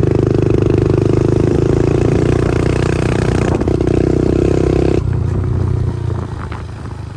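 Pit bike's small single-cylinder engine running loud and steady, then dropping off suddenly about five seconds in.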